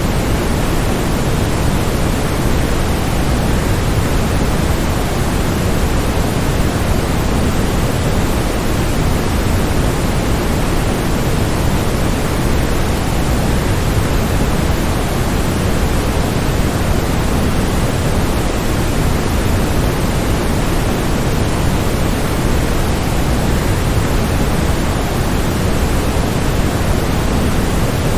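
Waterfall: a steady, even rush of falling water, fullest in the low end, with no separate splashes or changes.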